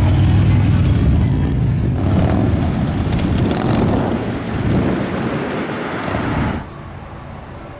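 Loud engine rumble with a wash of noise over it, cutting off abruptly about six and a half seconds in.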